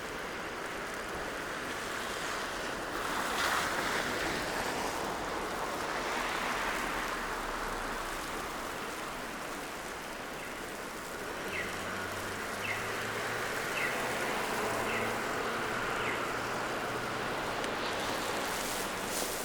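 City street traffic on a slushy, snowy road: tyres hiss as vehicles pass, swelling twice early on. Later, five short high chirps sound about a second apart over the low hum of an engine.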